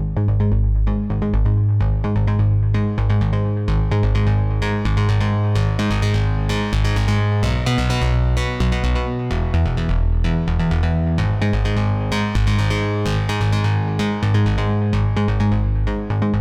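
Electronic dance synth preset from the Omnisphere software synthesizer playing a fast run of short, plucky notes over a sustained bass line, starting abruptly from silence.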